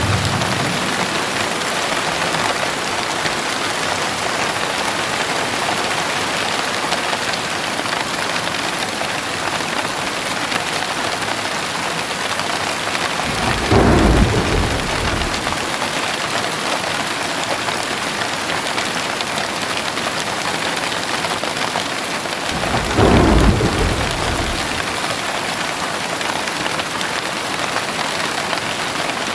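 Heavy rain pouring steadily, with two low rolls of thunder, one about halfway through and another about ten seconds later, each lasting about two seconds.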